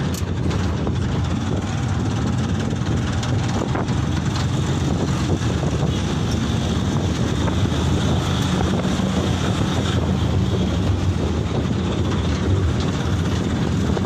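Steady engine drone and road rumble from a moving Canter light truck, with wind buffeting the microphone throughout.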